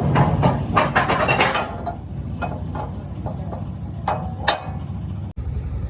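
Metal clinks and knocks from workshop tools and parts: a quick flurry of clinks, then single knocks about every half second, over a steady low machine hum.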